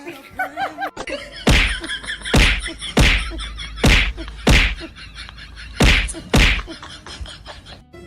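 A run of seven loud whacks with a low thud, unevenly spaced about half a second to a second apart, after a second of short rising-and-falling pitched sounds.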